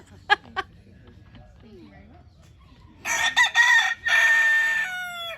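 A rooster crowing once, about three seconds in: a few short broken notes, then a long held note that falls away at the end. Two sharp clicks come just before it, near the start.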